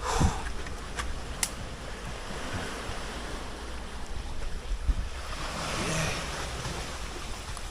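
Surf washing against a rocky shore, swelling louder about six seconds in, with wind rumbling on the microphone. A few short sharp knocks, a couple near the start and one about five seconds in.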